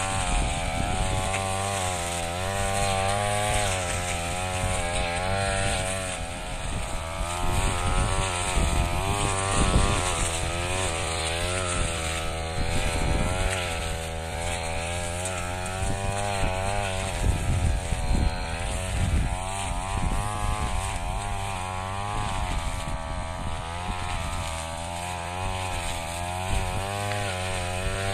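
Brush cutter engine running under load while cutting rice straw, its pitch rising and falling again and again as the engine speed varies.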